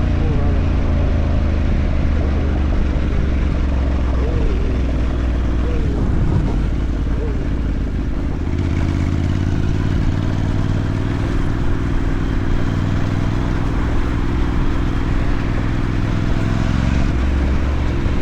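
Motorcycle engine running steadily while being ridden. The engine note shifts about eight seconds in.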